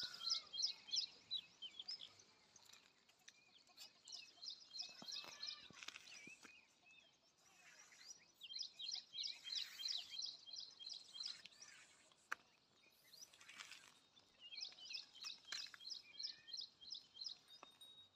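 A bird calling in repeated bouts of rapid high chirps, about five notes a second, each bout lasting one to three seconds and returning every few seconds. There is one sharp click about twelve seconds in.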